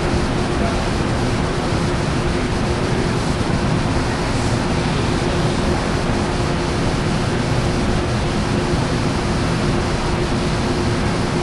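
Southbound Amtrak Coast Starlight train standing with its diesel locomotive idling: a steady rushing rumble with one constant hum running through it.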